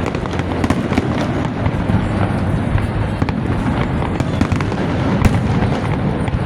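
Fireworks display: a dense run of crackling pops over a continuous low rumble, with one sharper bang about five seconds in.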